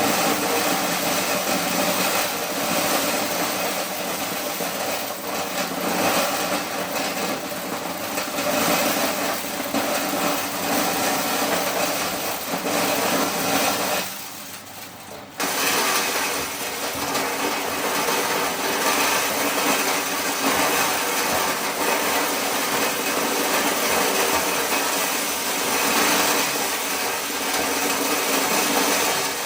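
Motor-driven corn shelling machine running steadily, with a short drop in level about halfway through.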